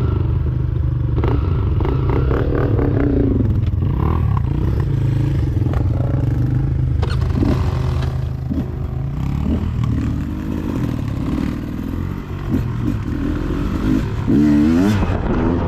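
Dirt bike engine running, its pitch rising and falling with the throttle, with scattered knocks and clatter. There is a quick rev near the end.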